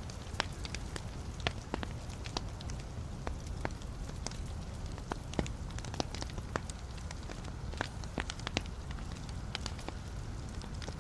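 Wood fire burning in a fireplace, with a steady low rumble and frequent irregular crackles and pops from the logs.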